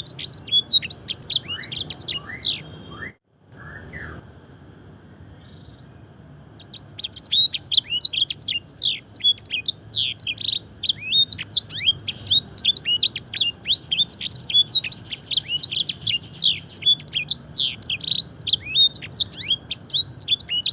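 Domestic canary singing a fast, continuous song of rapid, repeated downward-sweeping whistled notes, with phrases learned from the blackthroat and the edel sanger canary. The song cuts off abruptly about three seconds in, leaves a few seconds of quiet, then resumes about seven seconds in.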